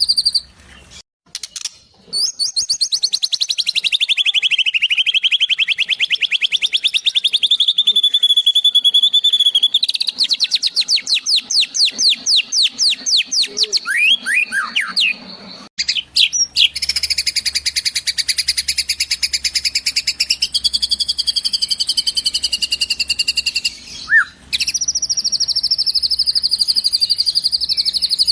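High, fast trilled bird calls, rapid repeated chirps with pitch sweeps. They come in spliced segments that cut in and out abruptly, making a filler-song track of sparrow and kingfisher calls played for training a songbird.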